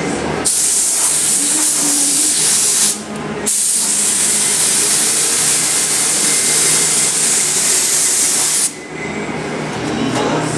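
Air spray gun spraying primer onto car body panels: a steady hiss of compressed air and atomised paint in two passes, one of about two and a half seconds and one of about five, with a brief release of the trigger between them.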